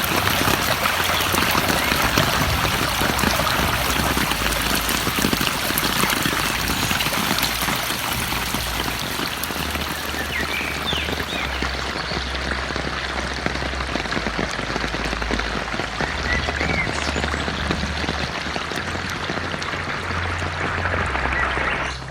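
Heavy rain falling steadily in a forest, an even hiss of water, with a few short faint chirps about halfway through.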